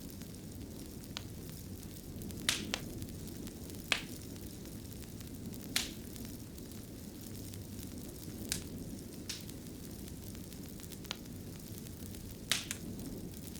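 Wood fire burning in a fireplace: a steady low rumble with sharp, irregular crackles and pops, about eight in this stretch.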